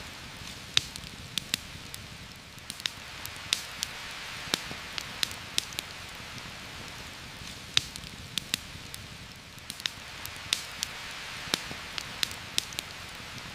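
Heavy rain falling steadily as a constant hiss, with a campfire crackling through it in irregular sharp pops, roughly two a second.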